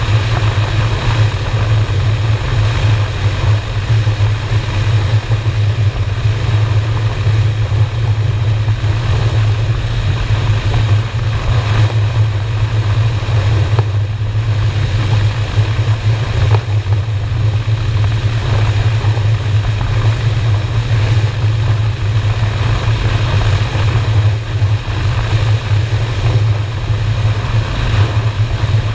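Honda Shadow V-twin motorcycle engine running steadily at cruising speed, a constant low drone, with a steady rush of wind noise over it.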